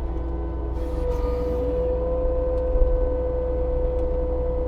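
Case TV450 compact track loader's diesel engine running steadily under load while the machine pushes logs forward, with a steady whine setting in about a second in.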